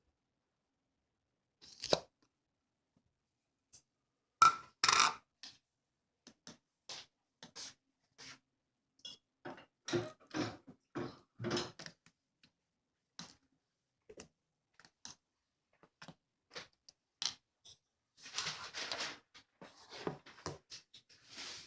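Irregular clicks, taps and rustling of small objects being handled, with the loudest knocks about four to five seconds in and a longer rustle near the end.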